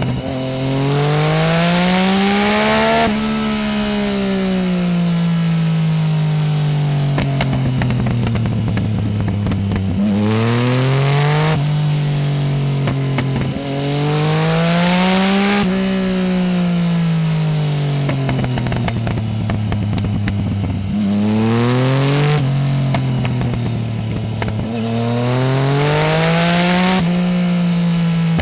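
Yamaha Tracer 900 GT's three-cylinder engine through a full Roads Italia exhaust with no dB-killer, heard from on the bike: revs climb quickly under throttle, then fall away slowly off throttle, about five times over, with wind noise behind.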